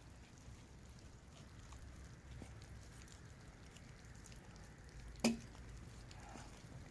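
One sharp axe blow into the wood of a dead tree, a little after five seconds in, over faint low background noise. The wood is dry and chops easily; its grain looks like ash to the axeman.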